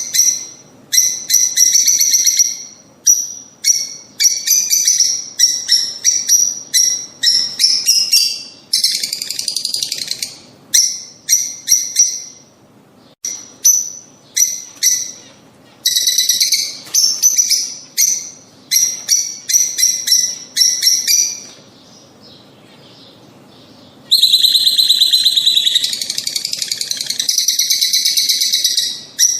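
Lovebirds calling: a rapid run of shrill, sharp chirps, with a short lull a little past two-thirds through, then a dense, unbroken stretch of chattering.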